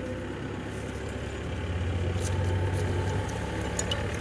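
Steady low engine hum, like an engine idling, louder for a couple of seconds in the middle, with a few faint clicks.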